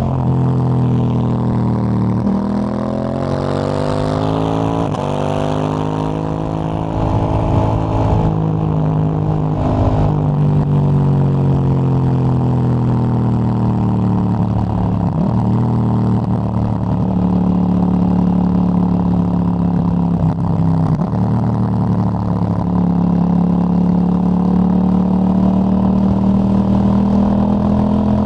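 KTM 890 Duke GP parallel-twin engine running through a Dominator HP8 slip-on exhaust with its dB killer fitted, under way on the road. The exhaust note rises and falls with the throttle, dips briefly twice, and climbs steadily near the end.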